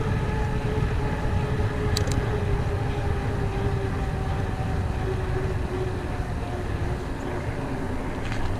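Mountain bike riding noise: rumble of the tyres over the trail and wind on the camera, with a steady hum that slowly drops in pitch. Two sharp clicks come about two seconds in and near the end.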